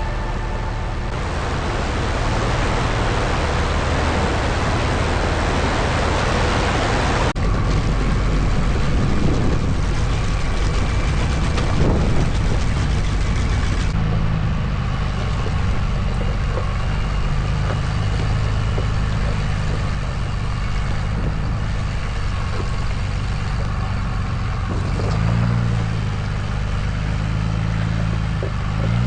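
Truck engine running as it drives a rough trail, its pitch rising and falling with the throttle. For the first seven seconds or so a loud rushing noise covers it, then cuts off suddenly.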